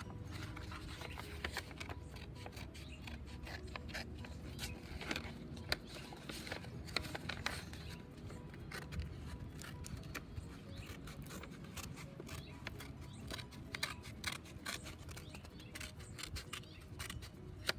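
Scissors snipping through folded construction paper: many short, irregular clicks.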